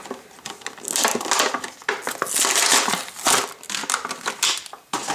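Toy packaging being crinkled and pulled open by hand: a dense run of irregular crackles and rustles, loudest about a second in and again around the middle.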